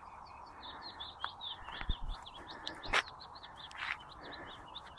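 A bird chirping, a rapid run of short high notes that keeps going, with a sharp click about three seconds in.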